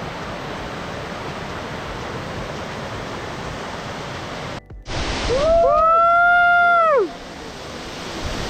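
Steady rushing roar of a high waterfall plunging down a cliff. It breaks off briefly a little over halfway through, and then a loud, long pitched call rises, holds for about two seconds and falls away over the water noise.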